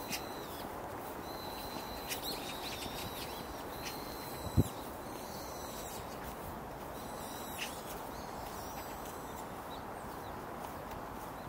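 Birds calling with thin, high whistled notes, some short and some gliding, over steady background noise. One sharp thump about halfway through.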